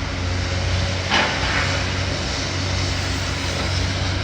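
A heavy demolition machine's engine running steadily at a low drone, with a brief noisy clatter about a second in as debris is handled.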